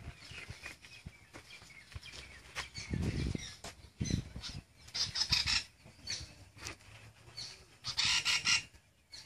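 Outdoor animal calls: two quick clusters of high, rapid chirps, one about five seconds in and one near the end, with fainter chirps between them and a few low thuds before the first cluster.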